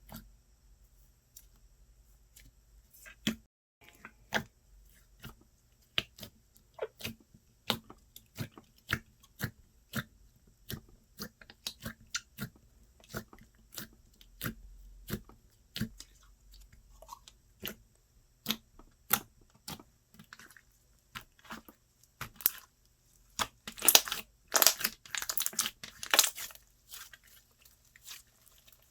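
Slime being pressed, poked and stretched by hand, giving a run of small wet clicks and pops, with a louder, quicker flurry of pops near the end.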